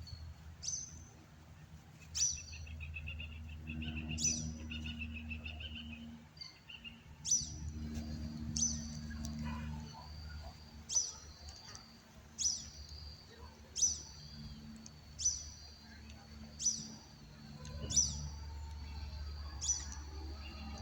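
Birdsong: one bird repeats a short, sharp high call that drops in pitch, about every second and a half, and another bird gives a brief rapid trill early on. A low steady hum comes and goes underneath.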